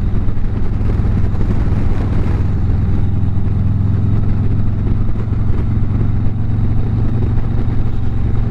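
Harley-Davidson V-twin motorcycle engine running steadily at cruising speed, heard from the rider's seat with wind and road noise.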